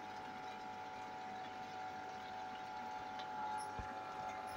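Chicken pieces frying in oil in a wok on a gas flame, giving a quiet, steady sizzle under a faint steady hum. A soft thud comes near the end.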